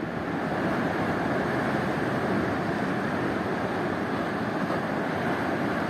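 Ocean surf: a steady rush of waves surging and breaking, with no single crash standing out.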